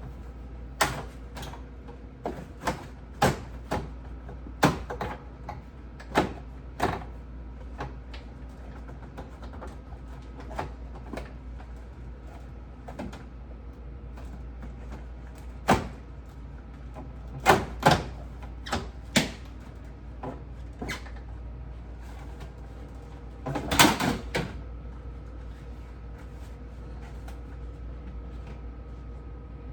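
Scattered knocks and clicks of objects being handled and set down, with a short run of rapid clattering later on. A faint steady hum runs underneath.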